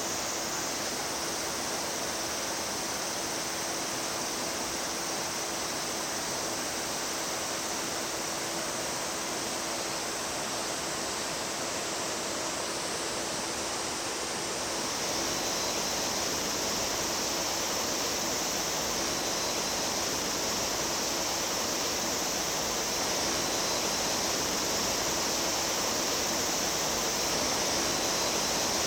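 Mountain stream water flowing steadily. Its sound shifts and grows slightly louder about halfway through.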